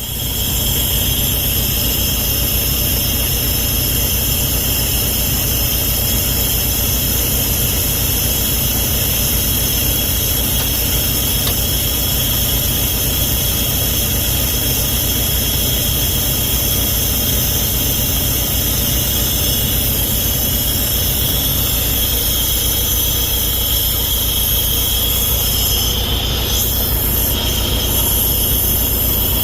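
Volvo D13 diesel engine of a semi truck idling steadily, with a steady high-pitched whine over the engine note.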